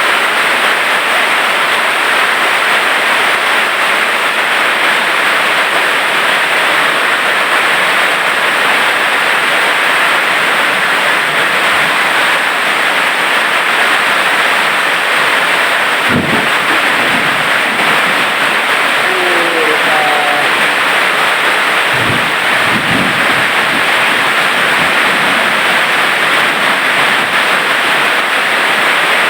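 Heavy rain falling steadily, a constant loud hiss, with a few brief dull thuds about midway and again a little later.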